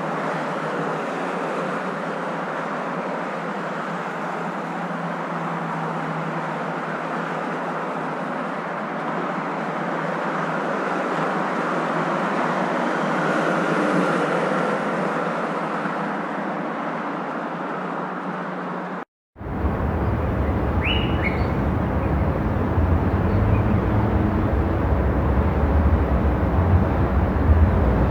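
Steady road noise of a moving car, an even hiss with little deep rumble. About two-thirds of the way in it drops out for a moment and comes back louder with a strong low rumble, with a couple of short chirps soon after.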